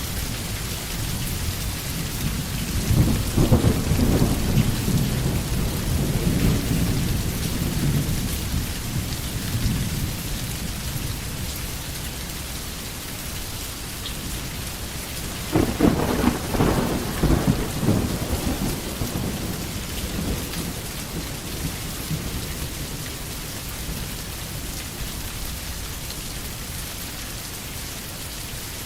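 Steady heavy rain hissing, with thunder rumbling twice: a long roll starting about three seconds in and a sharper, louder one about halfway through.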